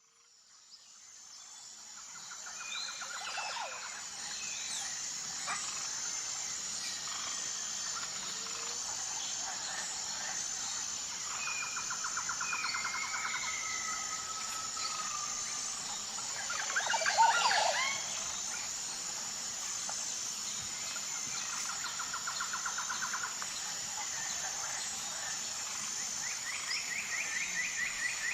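Nature ambience fading in: a steady high-pitched insect chorus with birds chirping and trilling over it, and one louder call about two-thirds of the way through.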